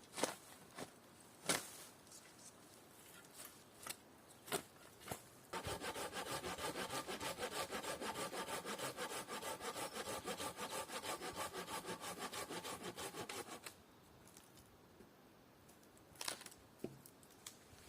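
Hand saw cutting through wood in a quick, even run of strokes for about eight seconds, starting about five seconds in. Before it come a few scattered knocks and clicks.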